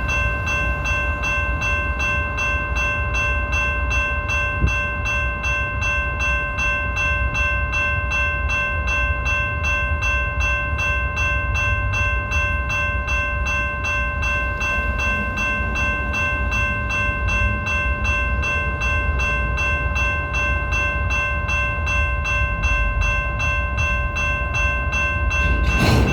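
BNSF freight train running past: a steady low rumble with several steady high tones over it and a fast, even ticking, growing louder near the end.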